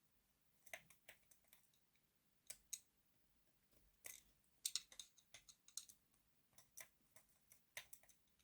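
Faint, irregular small clicks and taps of a screwdriver and plastic and metal parts as a screw is undone on a Hornby OO gauge model locomotive, in scattered clusters of quick ticks.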